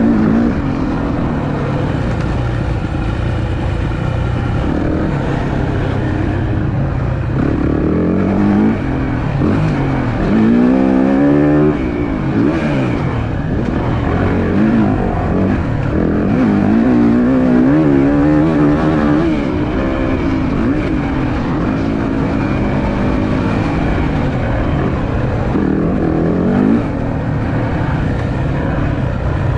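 Four-stroke 450 motocross bike, a Yamaha YZ450F single-cylinder, being ridden hard: the engine revs climb and drop again and again as the rider opens the throttle, shifts and backs off for corners.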